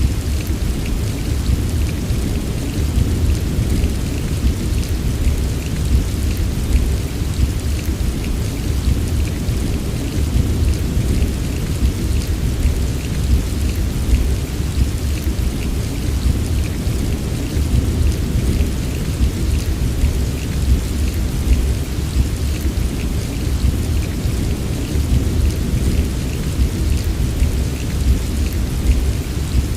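Steady heavy rain, a dense patter of drops over a constant deep low rumble, unchanging throughout.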